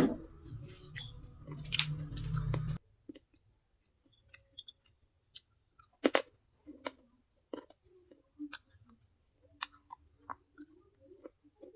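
Close-miked chewing and crunching of baked clay pieces. The first few seconds are a dense, loud crunching that cuts off suddenly. After that come scattered quiet clicks and small crunches from the mouth.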